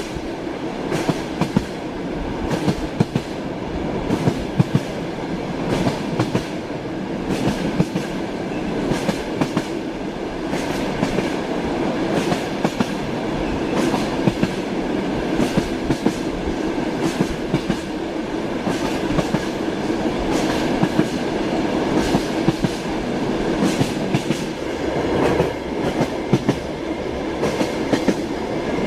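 Train carriage rolling along the track: a steady rumble with the clickety-clack of the wheels striking rail joints.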